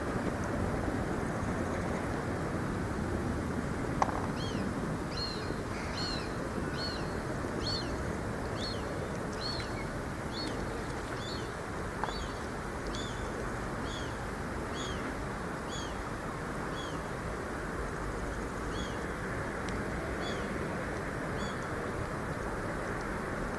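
A bird repeats a short, high, hooked call over and over, about one and a half calls a second, over a steady rushing background. The calls start a few seconds in and stop shortly before the end. A couple of faint clicks are also heard.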